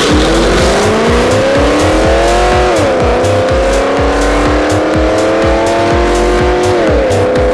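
Car engine accelerating hard under full throttle, its pitch climbing and then dropping at upshifts, once about three seconds in and again near the end. Music with a steady beat plays underneath.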